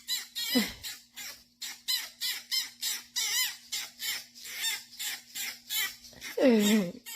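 A bird chirping rapidly, short high wavering notes about three or four a second, with a louder, lower falling call near the end.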